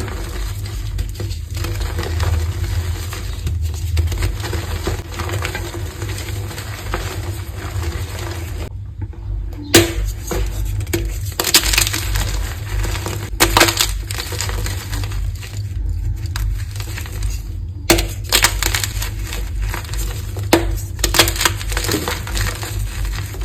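Chunks of powdery gym chalk crushed and crumbled by hand: continuous gritty crunching with occasional sharp cracks, broken by two abrupt cuts, one about nine seconds in and one about eighteen seconds in.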